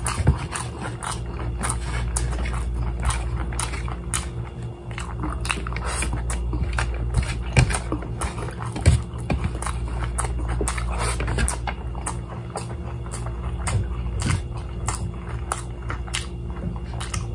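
Close-up chewing and crunching of crispy fried chicken: irregular crackly clicks and mouth smacks, over a steady low hum.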